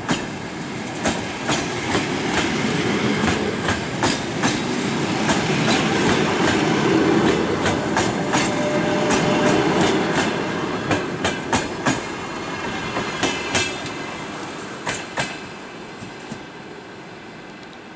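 Passenger coaches of a departing train rolling slowly past, their wheels clacking over rail joints again and again above a steady rumble. The clacks thin out and the sound fades over the last few seconds as the tail coach moves away.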